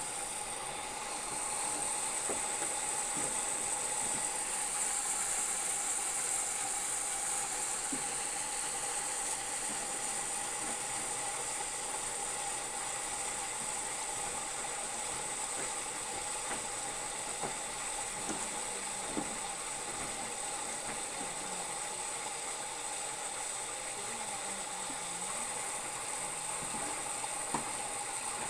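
Whirlpool front-load washing machine running: a steady hiss of mechanical and water noise with a faint steady whine and scattered light clicks.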